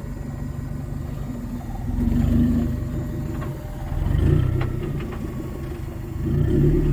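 Four-wheel-drive engine running low and steady, revving up three times in short bursts.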